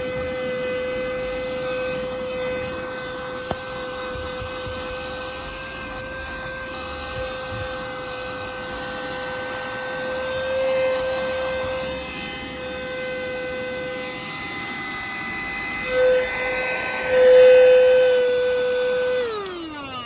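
Cordless handheld mini vacuum cleaner running with a steady high whine, with a few brief louder swells in the last third. Near the end it is switched off and the whine falls in pitch as the motor spins down.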